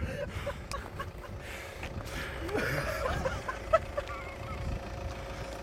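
Fireworks going off: scattered sharp pops and crackles, with one loud bang a little under four seconds in. Voices call out in the middle.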